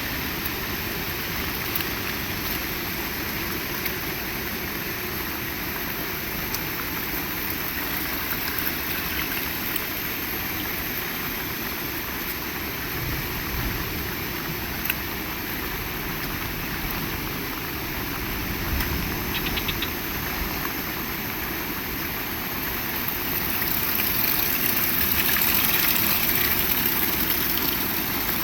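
Heavy rain falling in a steady hiss, swelling louder and brighter about five seconds before the end.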